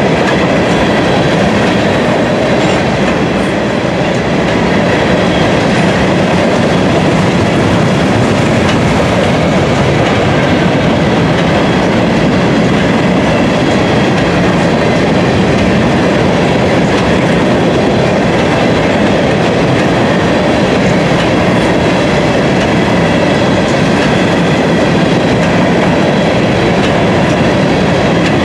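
Freight train's covered hopper cars rolling past close by: a loud, steady rumble of steel wheels on rail.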